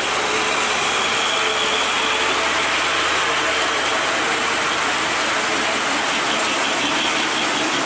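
Steady hiss of heavy rain with a truck engine running underneath it.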